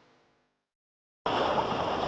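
A faint sound fades out into a moment of silence. About a second in it cuts abruptly to a loud, steady rush of wind and water noise from sailing footage.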